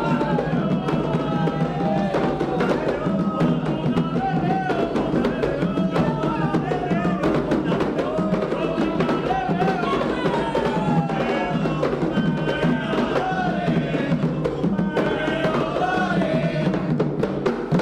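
Candomblé ritual music: a sung chant over steady hand-drum percussion with a struck bell or wood-block-like beat, cutting off abruptly at the end.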